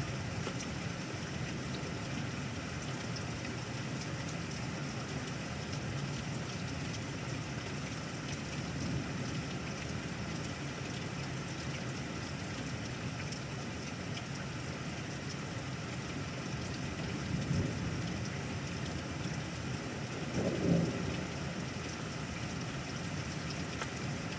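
Steady rain falling, with two short rumbles of thunder in the last third.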